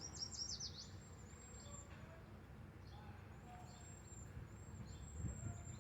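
Faint birdsong: a quick run of high down-slurred notes at the start, then thin, high chirps repeating over a quiet outdoor background.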